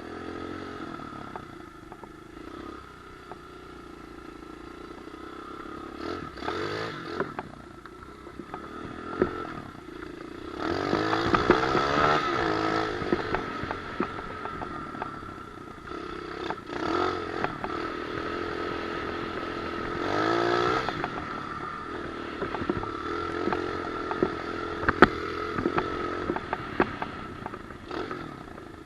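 Pit bike engine running and revving, its pitch rising and falling, with louder surges of throttle about ten to thirteen seconds in and again around twenty seconds. Clattering and rattling over it, with a few sharp knocks.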